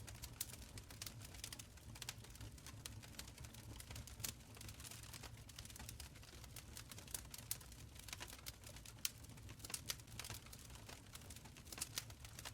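Wood fire crackling in a stone fireplace: a fast, irregular run of small sharp pops and snaps over a low, steady rumble of the flames.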